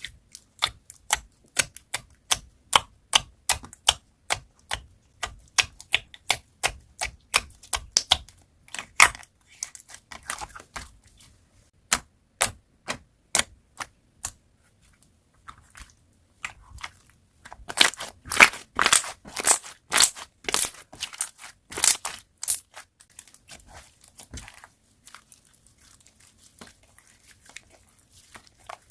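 Slime being pressed and worked by hand, making a run of sharp popping clicks about two or three a second. Around the middle a denser, louder stretch of crackling pops follows, fading to faint crackles near the end.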